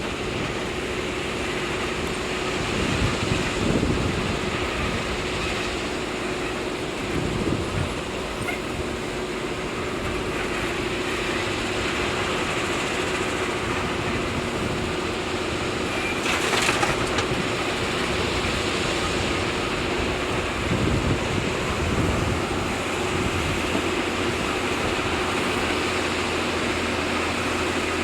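Heavy diesel earthmoving machinery running steadily with a constant hum and a few swells in engine load. About halfway through there is a brief loud rush of noise.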